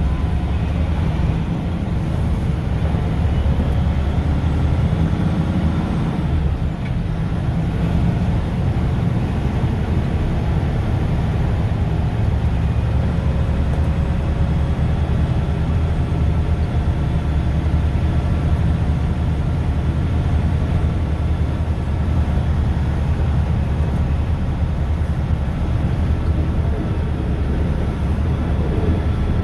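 Mack plow truck's diesel engine and road noise heard from inside the cab while driving, a loud, steady low drone.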